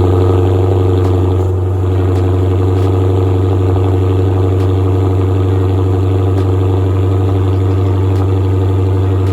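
Dodge 392 (6.4-litre) Hemi V8 idling steadily just after a cold start, having sat unstarted for several days; the fast idle eases slightly about a second and a half in.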